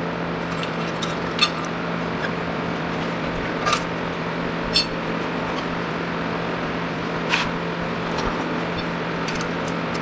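Hand tools clicking and clinking on metal a few times, about four sharp clicks spread out, over a steady machine hum in a workshop.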